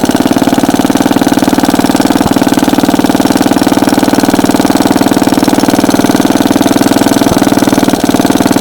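Clinton 1.5 hp single-cylinder engine of a 1950 Bready model BW walk-behind tractor running steadily at idle just after a cold start, still on choke, firing evenly on a new spark plug.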